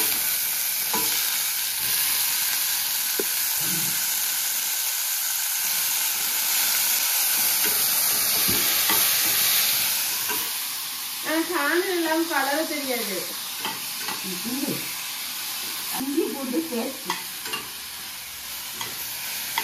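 Chopped onions and tomatoes sizzling in hot oil in a pan while a ladle stirs them, with a few light ladle knocks against the pan. The sizzle is loudest for the first ten seconds or so, then eases off.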